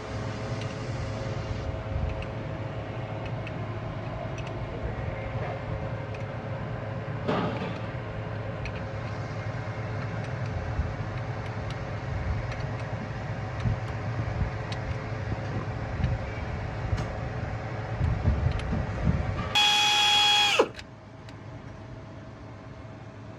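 Steady low mechanical running noise. About twenty seconds in, an electric power tool such as a drill whines loudly for about a second, then winds down with a falling pitch.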